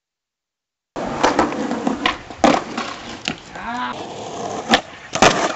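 Skateboard rolling, with several sharp clacks of the board striking the ground, starting suddenly about a second in. A brief squeak comes a little past the middle.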